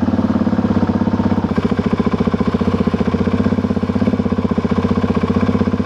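Motorcycle engine idling steadily with an even, rapid pulse. The owner says it is idling a bit funny and wonders about an air leak.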